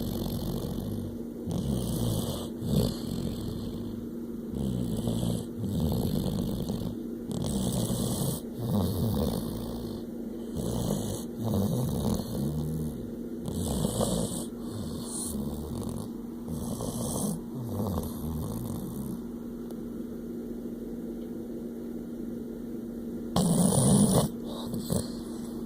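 Golden retriever snoring in its sleep, a snore roughly every second, then a few quieter breaths and one louder snore near the end.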